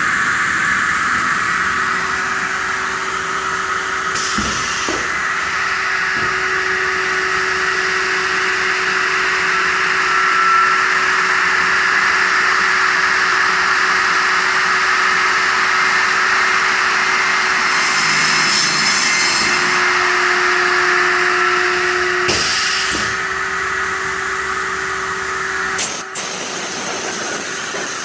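Hydraulic aluminium-profile circular saw machine running, its motor and spinning blade giving a steady whirring hum. A short burst of hiss comes near the end.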